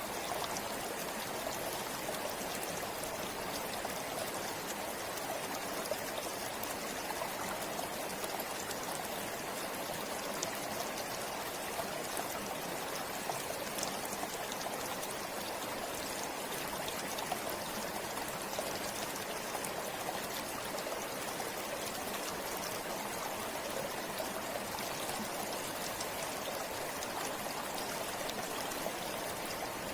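Forest river flowing steadily over rocks, a constant rushing and babbling of water with small splashes scattered through it.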